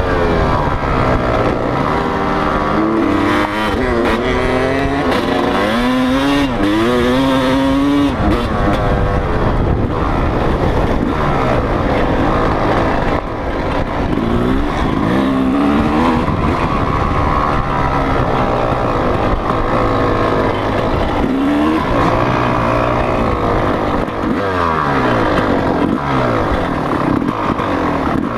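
Motocross bike engines revving hard and easing off again and again as the bikes ride, the pitch climbing and falling over and over, with more than one engine heard at times.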